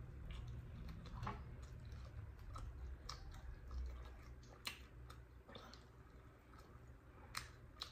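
Faint close-up chewing and gnawing on a barbecued pork spare rib bone: scattered soft clicks a second or so apart, over a low steady hum.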